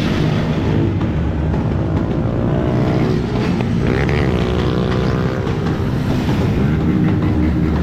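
Motorcycle engines running, with engine notes revving up and down about halfway through over a continuous low rumble.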